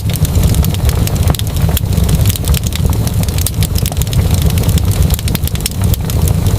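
Wood fire crackling, with many sharp, irregular pops and snaps over a steady low rumble of burning.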